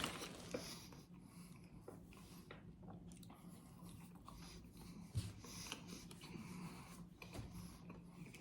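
Faint eating and handling sounds at a table: small clicks and rustles, with one soft knock about five seconds in.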